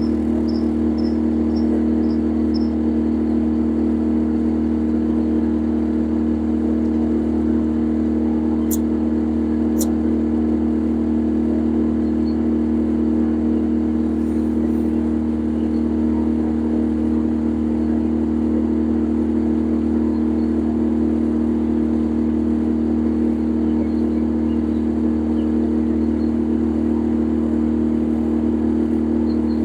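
A boat's engine running steadily, a constant low drone at even speed. A run of short high chirps, about three a second, comes in the first few seconds, and two sharp clicks come about a second apart near the middle.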